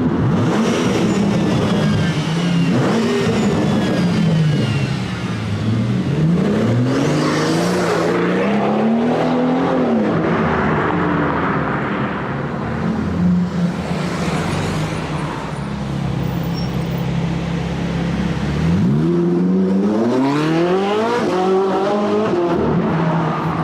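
Sports car engine and exhaust revving and accelerating. The pitch climbs and drops back several times, with a long rising run about a third of the way in and another near the end.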